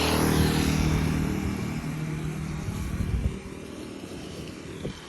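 A motor vehicle driving past close by, its engine and tyres loudest in the first second, then fading away over the next few seconds.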